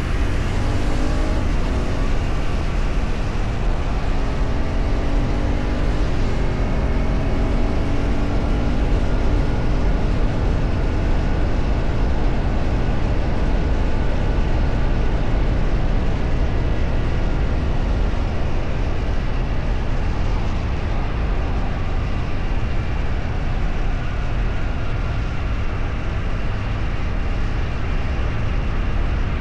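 A vehicle engine under way, its pitch climbing and stepping up during the first ten seconds or so, then lost in a steady, heavy rushing noise that lasts throughout.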